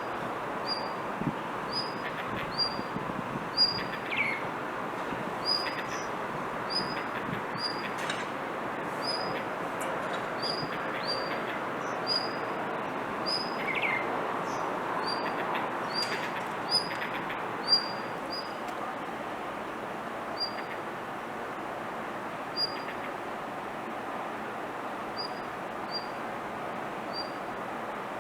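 Blue rock thrush giving a long series of short high call notes, one roughly every half second, which thin out in the second half. Two lower down-slurred notes come in, one early and one in the middle. It is calling persistently rather than singing its full song. A steady background hiss runs underneath.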